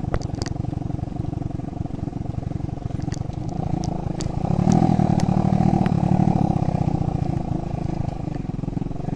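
Motorbike engine running with a rapid, even exhaust beat; it grows louder as the bike accelerates about halfway through, then eases back. A few sharp clicks and knocks from the bike jolting over the rough road.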